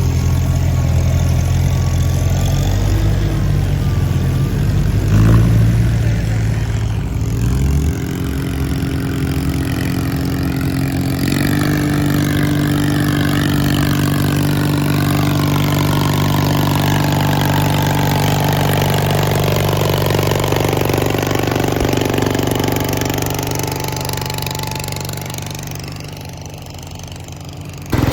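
Small tractor engines running steadily, the pitch shifting a few times; the sound fades away over the last several seconds, then returns suddenly at full level.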